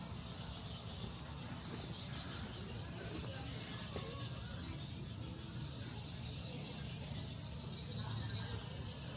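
Chorus of insects, crickets or cicadas, giving a steady, rapidly pulsing high buzz, over a steady low rumble.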